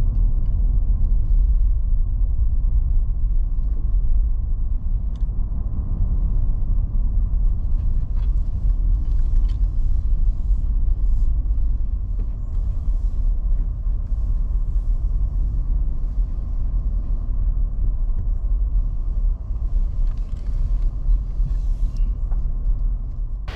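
Car driving, heard from inside the cabin: a steady low rumble of engine and road noise, with faint light clicks and rattles.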